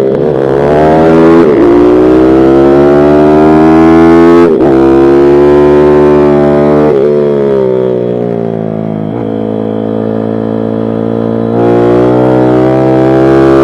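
Pit bike engine being ridden hard, its pitch climbing and falling through the gears with sharp breaks at each change. It is quieter and lower for a few seconds past the middle, then loud again near the end as the throttle opens.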